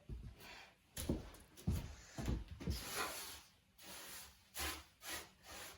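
Faint, scattered soft knocks, scrapes and rustles of objects being moved and handled on wood, about eight short sounds a few tenths of a second apart.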